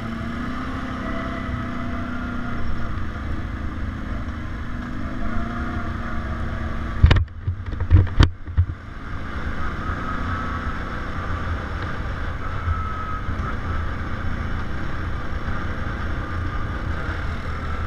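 ATV engine running steadily while riding, with a few sharp knocks and a brief dip in the sound about seven to eight seconds in.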